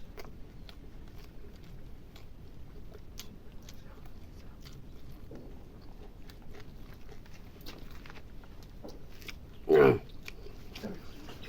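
Close-up chewing and biting: small clicks and crunches a few times a second while food is eaten. One short, loud pitched cry stands out about ten seconds in.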